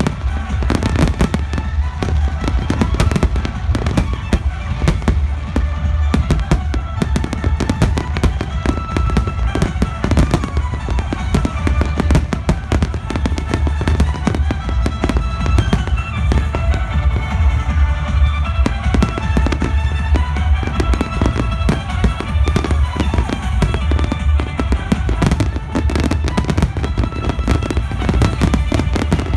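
Fireworks bursting in rapid, dense succession, with music playing alongside them throughout.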